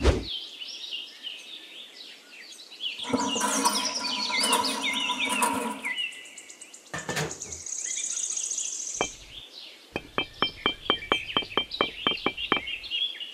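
Birds chirping, with a louder steady pitched hum from about three to six seconds in and a run of quick, evenly spaced clicks, about three a second, in the last few seconds.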